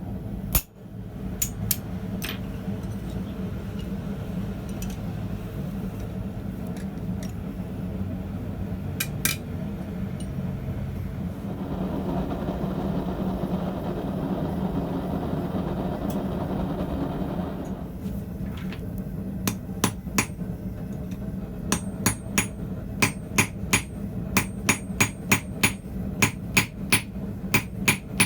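Blacksmith's hammer striking hot steel on an anvil: a few scattered blows at first, then steady rapid hammering, about two ringing blows a second, through the last third. A steady low hum runs underneath, swelling into a louder rushing noise for several seconds in the middle.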